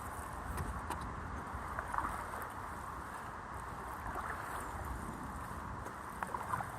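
Wind buffeting the microphone with water splashing from paddling a stand-up paddle board, a steady rushing noise with a few light splashes.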